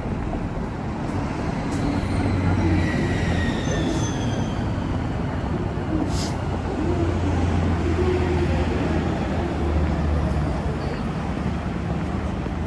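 Traffic noise: a steady rumble of passing vehicles, with a falling whine as one goes by.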